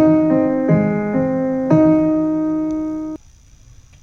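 Piano playing a few slow chords, each struck and left to ring, then cut off suddenly about three seconds in, leaving a short near-silent gap.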